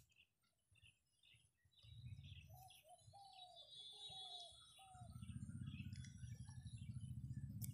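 Faint birds calling: a few short high chirps and a run of four short falling notes. Under them a low rumble comes in about two seconds in and grows louder near the middle.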